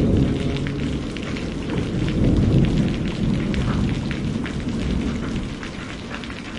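Steady rain with distinct drop hits and a low rolling thunder rumble, the rumble strongest at the start and dying away as the whole sound fades out gradually toward the end.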